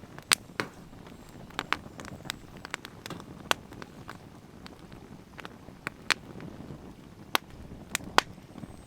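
Firewood burning, crackling with irregular sharp pops over a faint low hiss.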